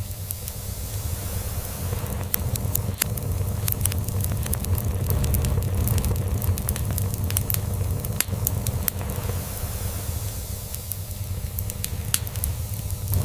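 Log fire crackling with irregular sharp pops and snaps, over a steady low rumble of a cat purring.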